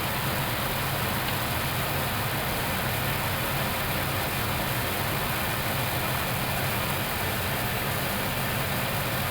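Steady rush of airflow and engine noise inside an Airbus A321neo flight deck on final approach, with the landing gear down and the flaps extended.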